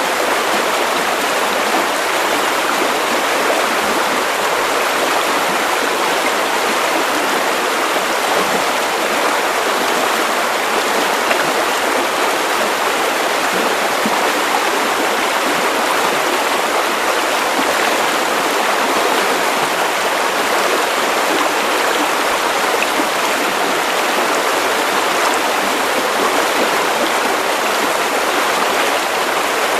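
Steady, unchanging hiss of white noise, even across the highs with little bass.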